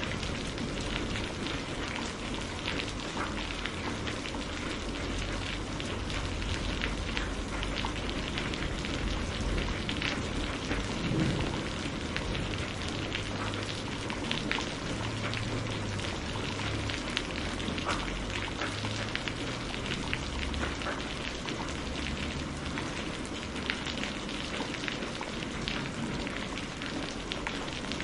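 Steady rain falling, with scattered louder drops hitting close by.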